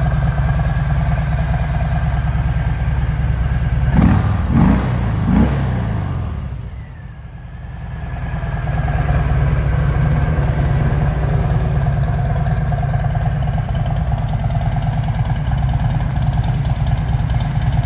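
Harley-Davidson Sport Glide's Milwaukee-Eight V-twin idling with a loping rumble. About four seconds in it is blipped three times in quick succession. Around seven seconds the sound briefly drops away, then returns to a steady idle.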